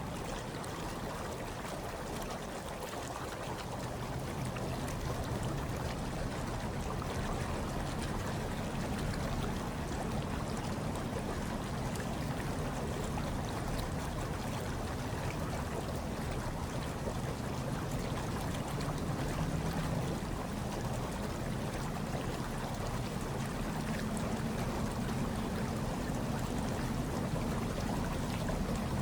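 Hot tub water bubbling and churning steadily, with a low rumble underneath.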